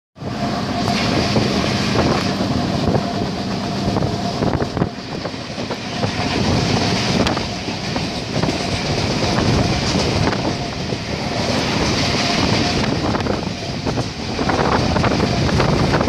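Train running along the line, heard from aboard: a steady rush of running noise with the wheels clicking and rattling over the rails, the clicks thickest near the end.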